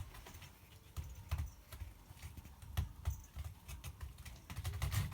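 A cat scratching to sharpen its claws: irregular rasping strokes and clicks with soft low thuds, busiest about a second in, around three seconds in, and near the end.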